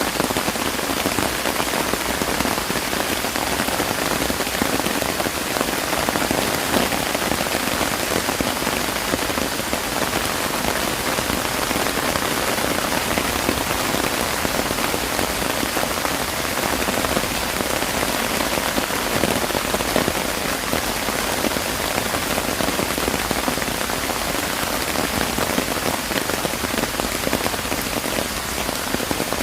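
Steady rain falling, a dense even patter of many drops hitting surfaces, with no change in intensity.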